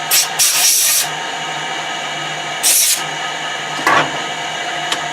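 Metal-cutting machine tool running steadily with a hum of several tones, interrupted by short bursts of hissing cutting noise as the cutter cleans up the end of a metal workpiece: once near the start, once about midway, and briefly near the end.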